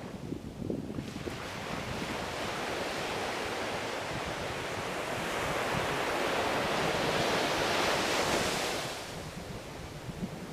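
Ocean waves on a shore: a surge of surf noise builds from about a second in, is loudest around eight seconds, then falls away quickly near nine seconds.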